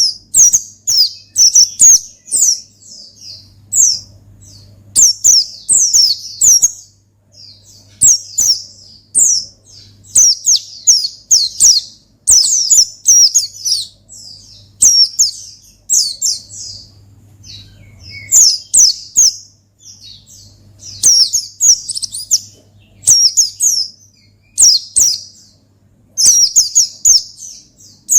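White-eye (pleci) singing its 'ngalas' song: rapid, high twittering phrases of quick down-slurred notes in bursts of about a second, separated by short pauses.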